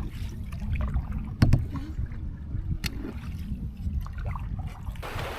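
Canoe paddling on a river: water sloshing against a low rumble of wind on the microphone, with two sharp knocks. Near the end a steady rushing hiss comes in.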